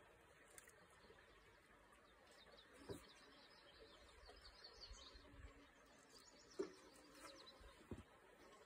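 Near silence with faint bird chirps, and a few soft knocks from handling a recurve bow and arrow as the arrow is nocked and the bow raised to draw.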